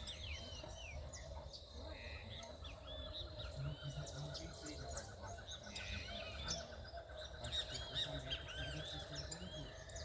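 Several small songbirds chirping and calling at once: many short, arched chirps overlapping, with a fast, even trill of notes running through the middle of the stretch.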